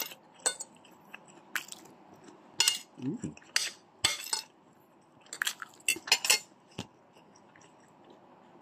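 Close-miked chewing of a mouthful of chicken adobo and rice: a series of short wet mouth clicks and smacks, several in quick succession about five to six seconds in, with a brief low hum about three seconds in.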